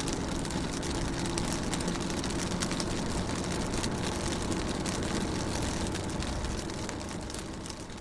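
Rain hitting a car's window and body in dense little ticks over a steady low engine-like hum, easing down slightly near the end.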